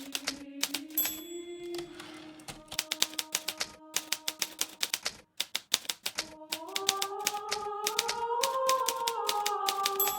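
Hermes Baby portable typewriter typed at a quick, steady pace, its keys clacking, with a brief pause about five seconds in. The margin bell rings about a second in and again near the end, and soft sustained background music plays underneath.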